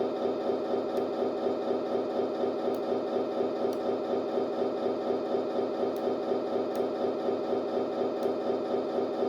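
Simulated Scania V8 engine sound from the RC truck's Servonaut SM3 sound module, idling steadily with an even, rapid pulse.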